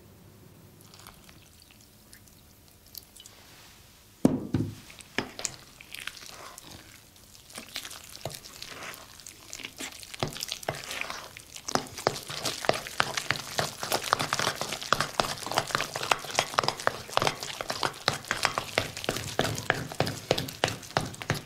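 A spoon stirring and beating a thick, wet chocolate pudding batter in a mixing bowl: rapid sticky slapping and scraping against the bowl, getting busier from about ten seconds in. A single knock about four seconds in.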